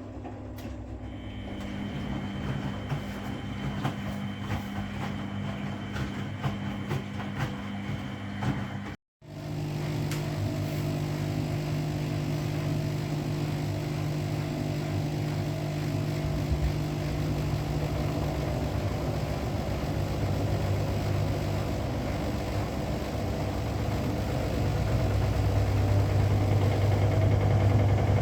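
Washing machine running, with a steady motor hum and drum noise; a brief drop-out about nine seconds in, and the low hum grows louder near the end, as if the drum is speeding up.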